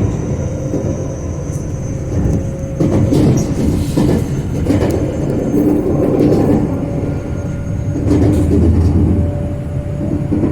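Local electric train running, heard from inside the passenger car: low rumble of wheels on the track with a steady motor whine that rises slowly in pitch, and a louder rush every couple of seconds.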